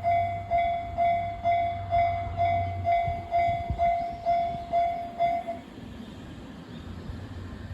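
Railway level-crossing warning bell ringing about twice a second, then stopping about five and a half seconds in, over the low rumble and clatter of a passing train.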